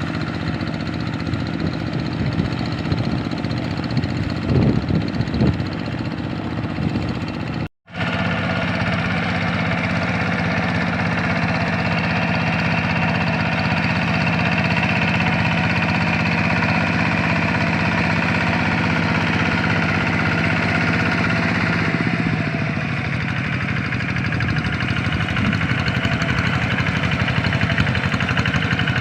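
Single-cylinder Kubota RD85 diesel engine of a two-wheel hand tractor running steadily, with a few louder knocks about five seconds in. The sound cuts out for an instant about eight seconds in, and the engine speed drops a little past two-thirds of the way through.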